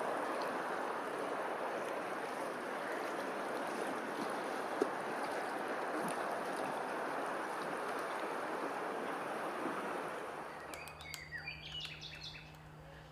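Steady rush of running stream water, which cuts off about ten seconds in. Small birds then give a few short high chirps over a low steady hum.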